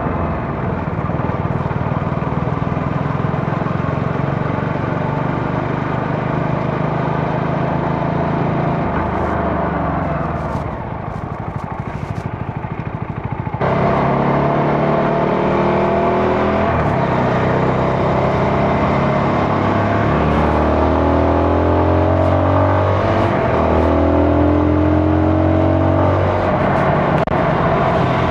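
CFMoto 250NK's single-cylinder engine heard from the bike while riding: steady running at first, easing off and slowing about ten seconds in. About halfway through the throttle opens sharply and the engine pitch climbs through a couple of upshifts.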